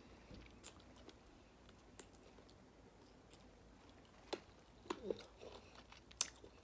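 Faint chewing and wet mouth clicks from a person gnawing meat off a pork riblet close to the microphone, with a few louder smacks near the end.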